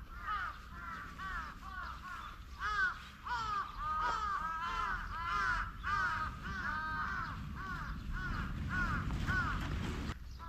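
A chorus of bird calls: many short, arched calls overlapping several times a second over a low rumble, stopping abruptly near the end.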